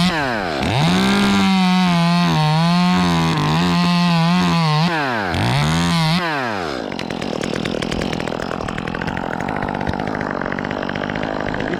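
Chainsaw revved up and down several times, then held at full throttle for about four seconds with its pitch wavering as it cuts through the wood. It revs once more and falls away about seven seconds in, leaving a steadier, lower running sound.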